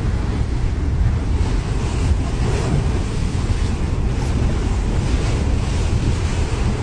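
Water surging and sloshing in a swimming pool shaken by an earthquake, a steady wash of waves with a heavy low rumble.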